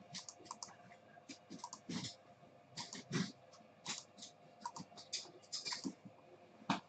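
Typing on a computer keyboard: irregular runs of short key clicks over a faint steady hum.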